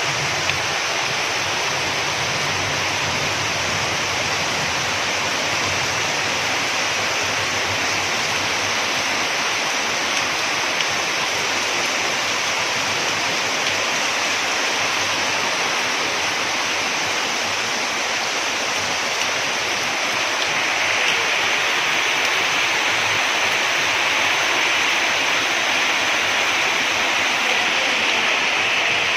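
Heavy rain falling in a steady hiss, growing a little louder about two-thirds of the way in.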